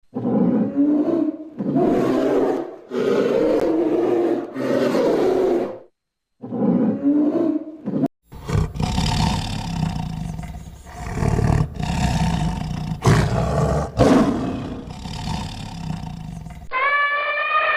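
Big cats roaring: a string of separate rough roars, then a denser, louder run of roars and growls. Near the end a high, wavering trumpet-like call starts, typical of an elephant trumpeting.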